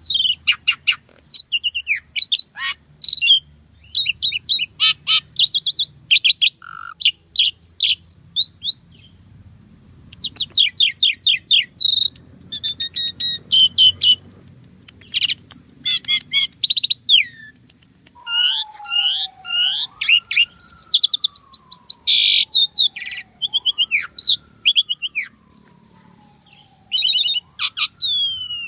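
Asian pied starling (jalak suren) singing a fast, varied stream of chirps, whistles and chattering phrases. From about two-thirds of the way in, a lower long whistle glides slowly up and down underneath it, repeating.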